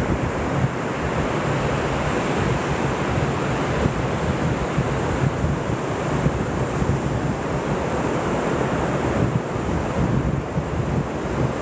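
Ocean waves washing on the shore, heard as steady surf, with wind noise on the microphone.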